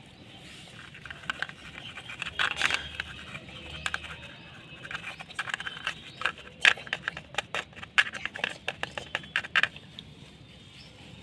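Toys being handled: a run of sharp clicks, knocks and scrapes that grows denser in the second half and stops about ten seconds in.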